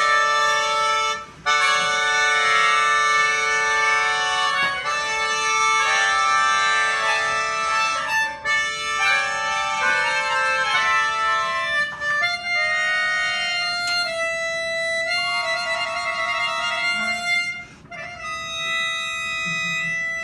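Instrumental music on a free-reed keyboard instrument playing a slow melody of long held notes. The chords are full at first and thin to single sustained notes in the second half.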